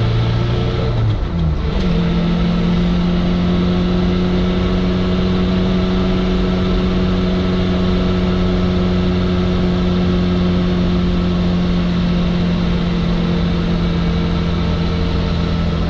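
Suzuki Samurai's four-cylinder engine heard from inside the cab while driving. About a second in the engine note dips briefly and settles at lower revs, then holds a steady drone.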